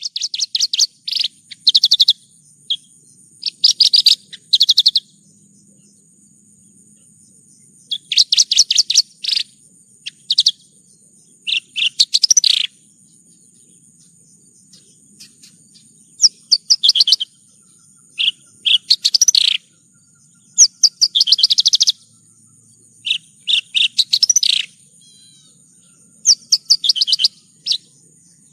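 Javan bush lark (branjangan) singing: rapid trilled and chirping phrases of one to two seconds, repeated with short pauses between them, over a faint steady high-pitched tone.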